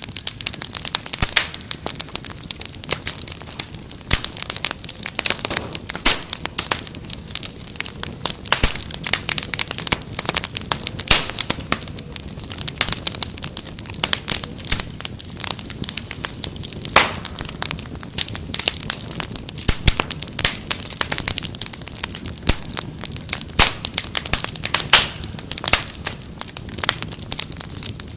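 Wood fire crackling in a fireplace: a dense run of sharp pops and snaps, several a second, over a low steady rumble of the flames.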